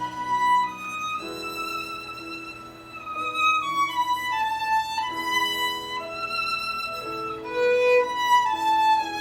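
Violin playing a slow melody of long held notes, stepping down in pitch through the middle and rising again near the end.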